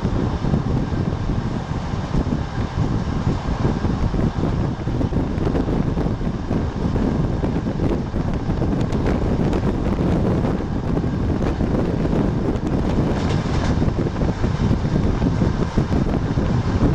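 Steady rumbling rush of a passenger train running at speed, heard from on board.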